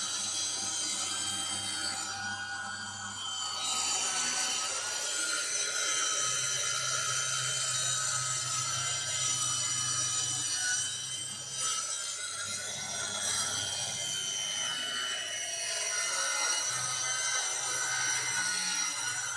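Ryobi circular saw running and cutting through form ply (waterproof plywood), a steady motor whine with the rasp of the blade in the wood, the pitch shifting briefly a couple of times.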